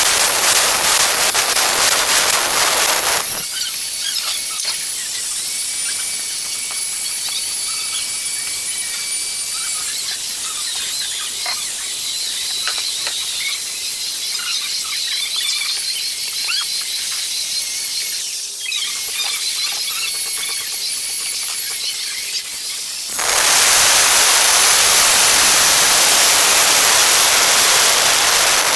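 Angle grinder cutting tile: loud, gritty noise for the first few seconds, then about twenty seconds of a quieter, high-pitched squealing whine, then loud cutting noise again near the end.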